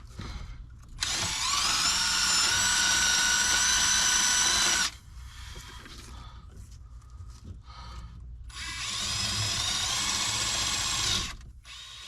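A power drill run in two bursts of about four and three seconds. Each time it spins up, holds a steady whine and then cuts off. Small handling clicks come between the bursts.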